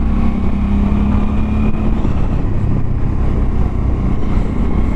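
Motorcycle engine running at a steady cruise while riding uphill, its note holding even with a slight dip about two seconds in, over a constant low rumble of wind and road noise.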